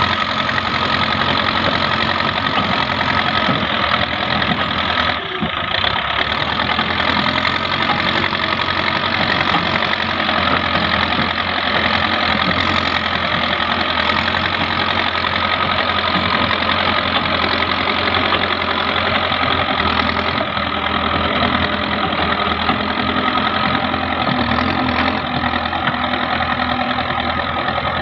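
Heavy diesel machine engine running steadily at an even, low speed.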